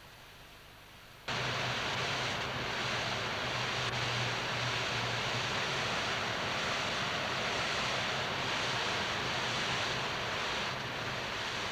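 A steady rushing noise with a low hum underneath, cutting in suddenly about a second in and holding even until it eases slightly near the end.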